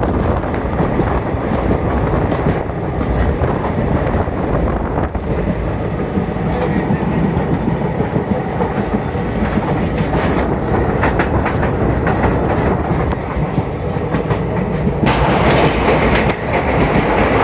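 Passenger train running along the track, wheels clattering over rail joints with a steady rumble and a run of sharp clicks in the second half.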